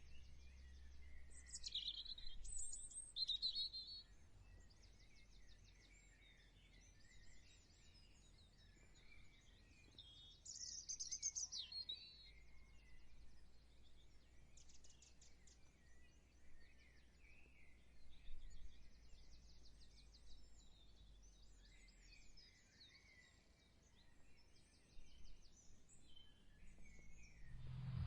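Songbirds chirping and trilling, faint and intermittent, with a few louder bursts of calls a couple of seconds in and again about ten seconds in, over a low steady background rumble.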